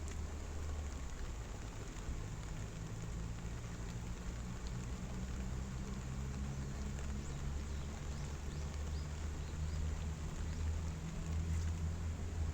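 Steady rushing noise of a waterfall in the rain, with a deep low rumble underneath, growing a little louder near the end.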